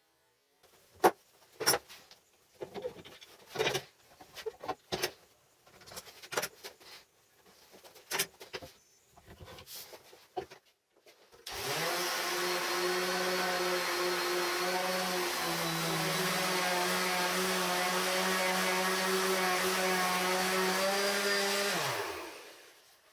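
A series of scattered knocks and clicks, then an electric power tool's motor starts about halfway through. It runs steadily at a high pitch for about ten seconds, then winds down.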